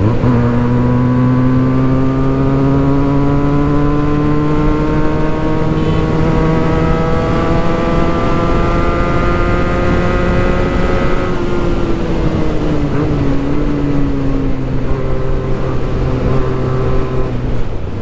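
Benelli 302S parallel-twin engine through a Yoshimura exhaust at highway speed, pulling in gear with its pitch climbing slowly for about eleven seconds. It then eases off with the pitch dropping, and settles to a steady cruise, with wind and road noise underneath.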